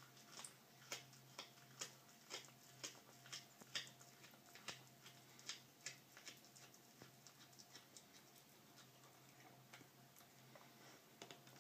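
A cat chewing a bird: faint, sharp clicks about two a second, thinning out in the second half.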